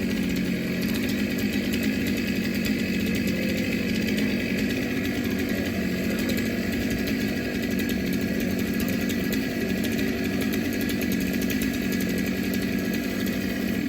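Two-stroke chainsaw running steadily at high speed, held at a constant pitch, then cutting off abruptly at the very end.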